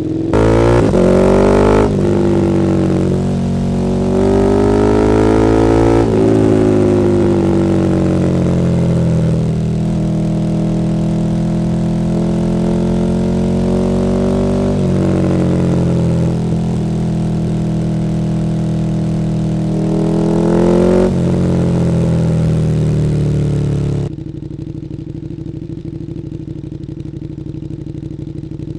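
KTM 1290 Super Duke R's V-twin engine through an Akrapovič Evolution Line exhaust, ridden under throttle, its note rising and falling with several gear changes. Near the end it drops to a quieter, steady note.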